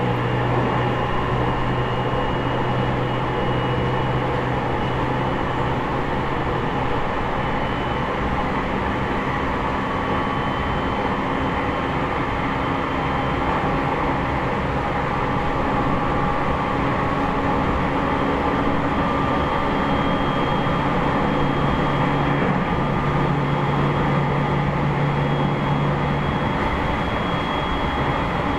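Cabin running noise of a JR East E501 series electric train's motor car (MoHa E501-8), wheels on rails at line speed. Faint steady tones from the Toshiba IGBT-inverter traction equipment sit over the rumble, one high tone drifting slowly upward.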